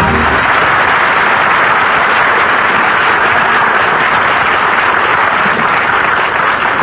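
Studio audience applauding, a dense, even clapping that holds steady and begins to thin near the end.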